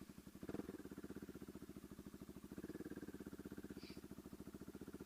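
Bajaj Pulsar NS200's single-cylinder engine with an aftermarket SC Project exhaust idling just after a cold start, following many days unused. It puts out a steady, even exhaust pulse, swelling slightly about half a second in and again around three seconds.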